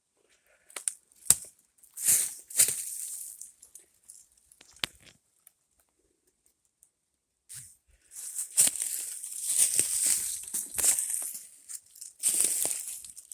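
Footsteps crunching through dry leaves and twigs on a woodland path, irregular crackling and rustling that stops for a few seconds midway, then comes back thicker and steadier.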